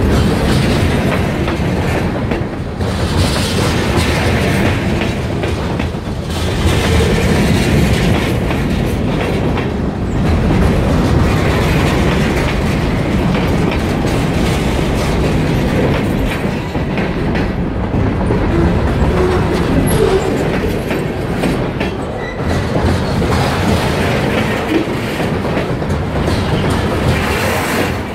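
A freight train of covered hoppers and autorack cars rolling past close by: a steady noise of steel wheels on the rails, rising and falling every few seconds as car after car goes by.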